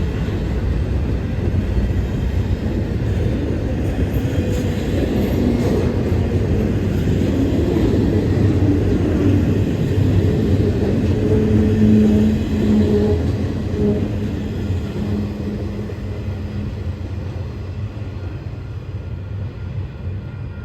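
Train rolling past: a steady rumble of wheels on the rails, with faint whining tones partway through, easing off near the end.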